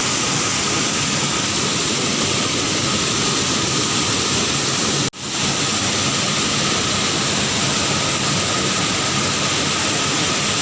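Steady roar of a waterfall, rushing water pouring into a pool close by. The sound drops out for an instant about halfway through, then resumes unchanged.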